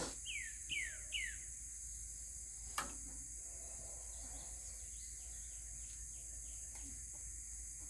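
A songbird sings four quick down-slurred whistled notes in the first second or so, over a steady high-pitched drone of insects. A single sharp click comes about three seconds in.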